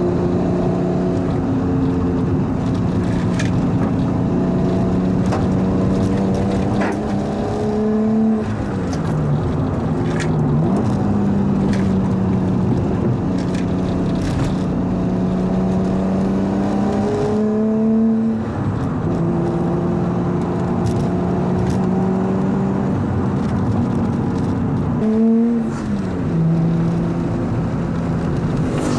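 Nissan Skyline R33's turbocharged RB25DET straight-six running through a straight-pipe exhaust, holding a steady note under cruise. Three times, about 8, 17 and 25 seconds in, the engine note climbs briefly and then drops sharply before settling back.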